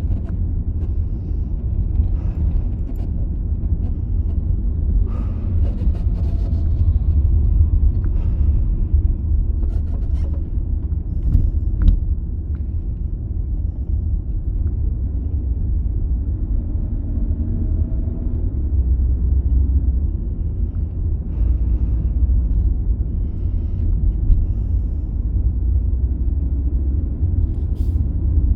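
A steady low rumble with a few faint clicks and knocks.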